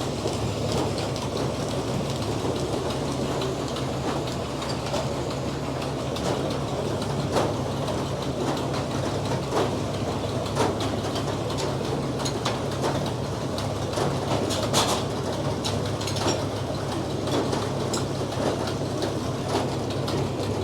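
Frick circular sawmill running steadily, a constant low drone from its power unit with scattered knocks and clatter from the mill and carriage.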